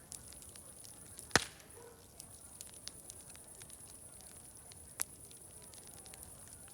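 Fire crackling with scattered small snaps over a steady high hiss, and a loud sharp pop about a second and a half in, with another about five seconds in.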